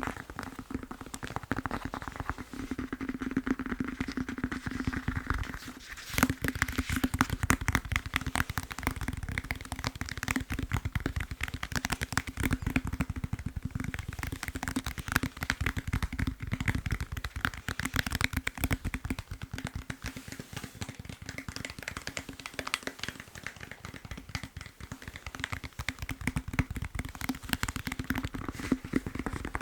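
Fast tapping on a foam massage roller: a dense, continuous run of quick taps, briefly stopping about six seconds in and coming back louder.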